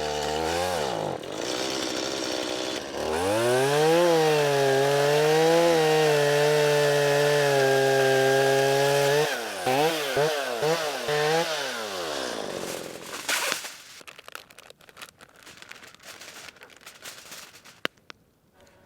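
Chainsaw running at high revs while cutting a tree, its pitch rising and falling. It is revved in a few quick blips and then drops away about thirteen seconds in.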